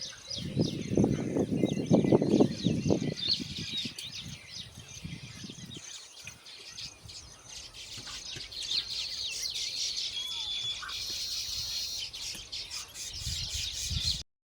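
Baya weaver colony chattering: many small birds chirping and twittering at once, a continuous high-pitched chorus. A louder burst of low buffeting noise runs through the first few seconds, and the sound cuts off abruptly near the end.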